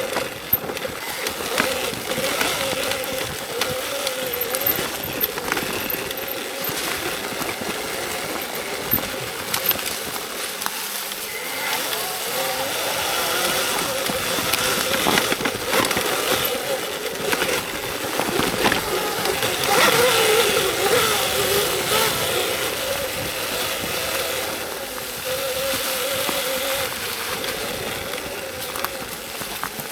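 Electric dirt bike motor whining, its pitch wavering up and down with the throttle throughout, over a steady rushing noise and frequent knocks and rattles from riding a rough trail.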